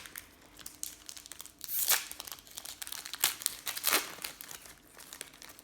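Foil trading-card pack wrappers crinkling and crackling as packs are handled and torn open, with two louder crackles about two and four seconds in.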